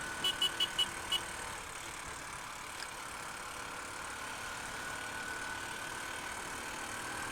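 Vehicle engine idling steadily, with five short, high-pitched beeps in quick succession in the first second.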